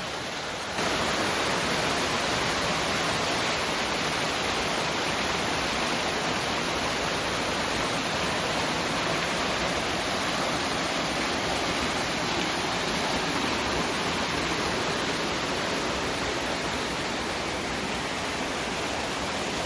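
Mountain valley stream rushing steadily over rocks. It grows louder just under a second in, then holds even.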